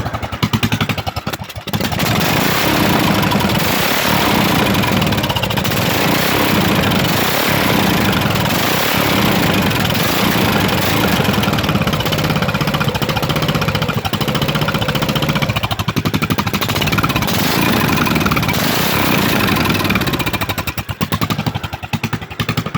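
Craftsman small engine running with its muffler removed, exhaust straight out of a bare pipe. It runs loud with rapid firing pulses, dips briefly a little under two seconds in, and dies down about a second before the end.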